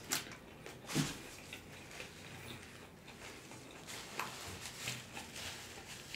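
Close-miked chewing and wet lip smacks of a person eating a fried chicken sandwich, with a few sharp mouth clicks, the loudest about a second in. A paper napkin rubs across the mouth near the end.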